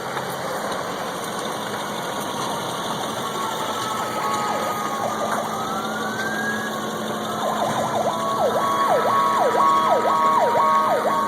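Emergency vehicle siren approaching and growing louder: a slow wail rising near the middle, then a fast yelp repeating from about two-thirds of the way in, over a steady rushing noise.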